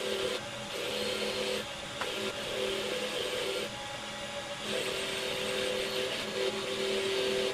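Electric power tool running in bursts of one to three seconds, with short pauses between, its motor holding a steady pitch.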